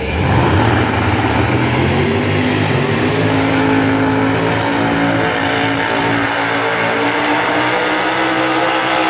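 Drag-racing cars launching and running down the strip at full throttle in a head-to-head final. The loud engine note comes in abruptly and climbs.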